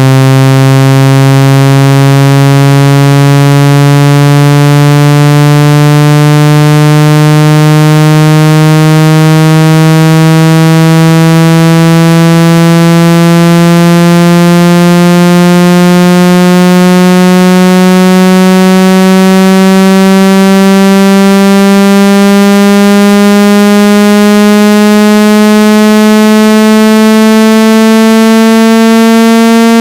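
Phone speaker-cleaning tone: a loud, steady buzzing electronic tone rich in overtones, slowly rising in pitch. It is played to vibrate the speaker and shake out water and dust.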